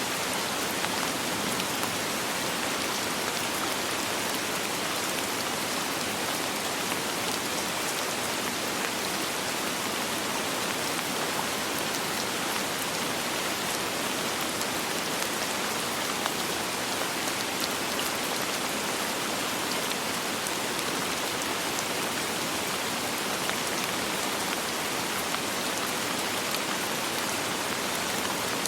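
Steady rain falling, an even hiss of many small drops pattering on a surface with no change in strength and no thunder.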